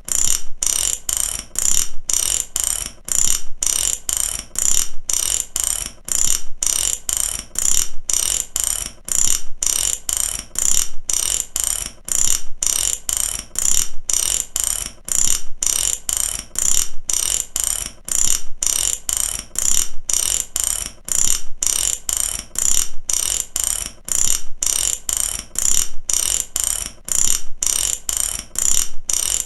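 Mechanic's ratchet wrench clicking in a steady, rapid, even run of sharp metallic ticks.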